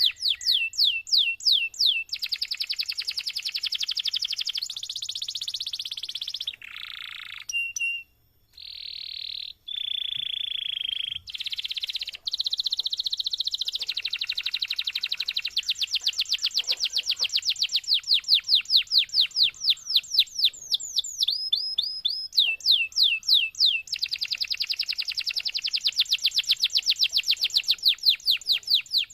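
Domestic canary singing a long, unbroken song. It runs through fast trills of repeated down-slurred notes at several speeds, buzzy rolls and short whistled notes, with two brief breaks about eight and ten seconds in.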